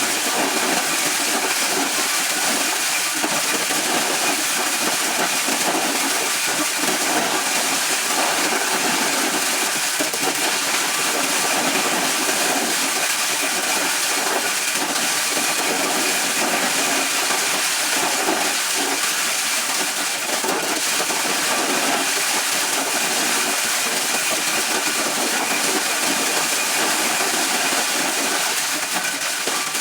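Corn-shelling machine running steadily: a constant hissing, rattling noise of the machine at work, with a faint high whine.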